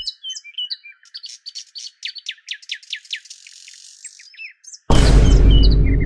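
Birds chirping: a fast run of short downward-sweeping chirps with some twittering, thin and with no low end. About five seconds in, a loud sound with deep bass and steady low tones cuts in suddenly over the birdsong.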